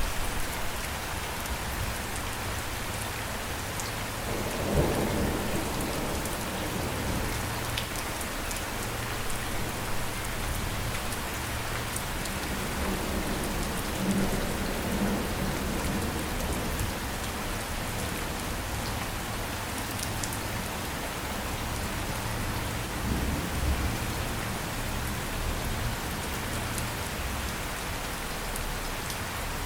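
Steady heavy rain falling, an even hiss, with low rumbles of thunder swelling three times, about 5, 15 and 23 seconds in.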